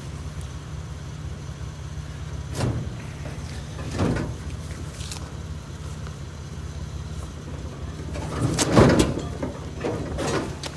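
Heavy scrap appliance being shifted into a van, with several knocks and scrapes that are loudest about nine seconds in, over a steady low engine hum.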